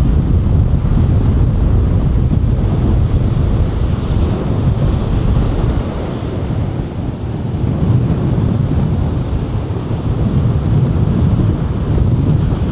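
Heavy wind buffeting the microphone in loud, gusting rumbles, over the steady wash of ocean surf breaking on a sandy beach.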